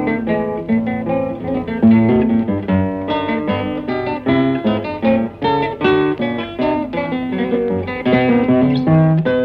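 Background music: acoustic guitar, plucked and strummed in quick notes.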